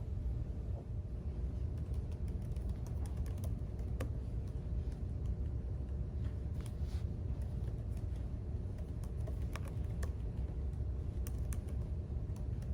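Typing on a computer keyboard: irregular, scattered key clicks over a steady low background rumble.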